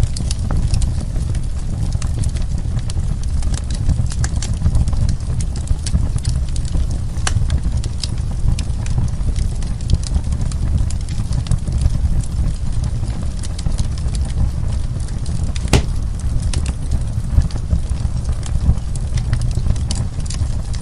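Wood fire crackling in a fireplace: a steady low rumble of burning with many scattered sharp pops and crackles, and one louder pop about three-quarters of the way through.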